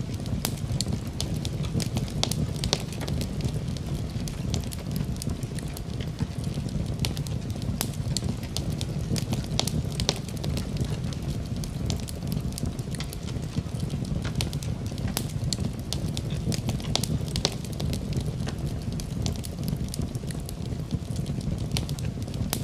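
Fireplace fire crackling: many small, sharp, irregular pops and snaps over a steady low rumble of burning.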